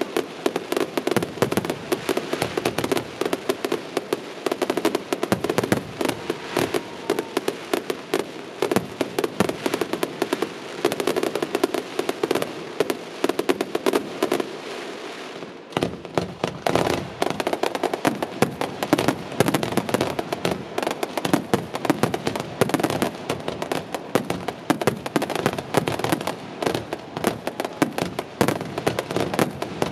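Fireworks display: a dense, continuous crackle of many rapid small pops and reports, with a brief lull about halfway through before the rapid crackling resumes.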